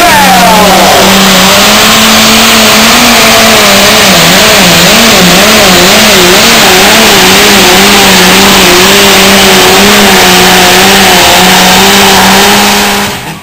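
Turbocharged high-horsepower diesel of an outlaw pulling tractor running flat out under load, very loud, its engine note wavering up and down over a steady drone, then cutting off abruptly near the end.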